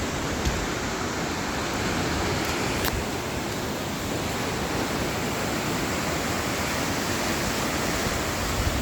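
Steady, even rush of heavy water during a cloudburst downpour.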